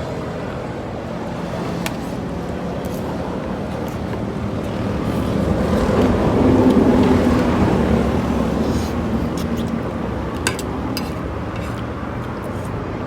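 Road traffic going by. One motor vehicle swells past about six to eight seconds in, and a few sharp clicks come in the later part.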